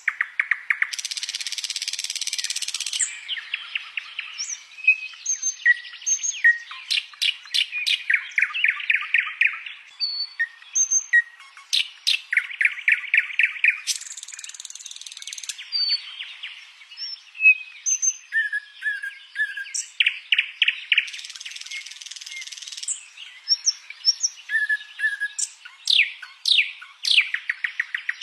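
A songbird singing a long, varied song: fast trills of rapidly repeated notes, several harsh rasping bursts of a second or two, and short whistled notes between them.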